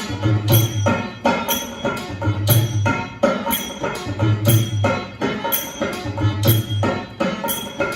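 Rajasthani folk music with drumming and jingling percussion, a brisk steady beat with a deep drum pattern coming round about every two seconds.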